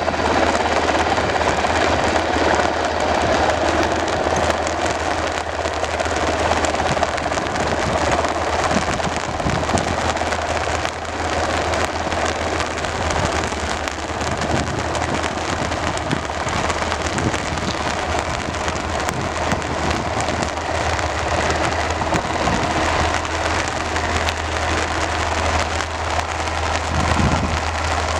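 Steady rain falling, an even hiss of drops with a constant low hum underneath.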